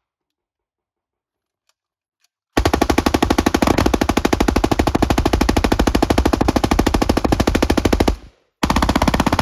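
Several HK MP5 submachine guns firing full-auto together in one long continuous rattle that starts about two and a half seconds in. It breaks off for a moment near the end, then starts again.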